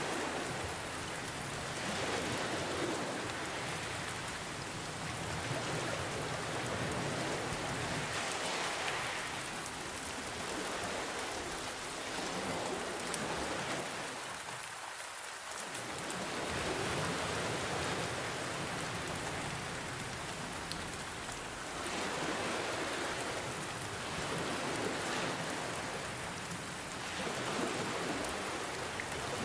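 Steady rain falling, mixed with ocean waves that swell and ebb every five or six seconds.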